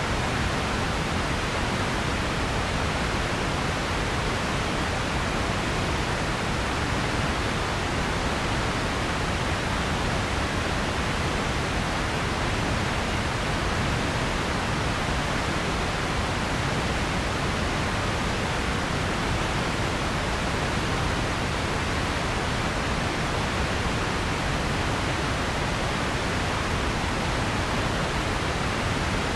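Steady, unchanging noise hiss, spread evenly from low to high pitches with no events or changes in level.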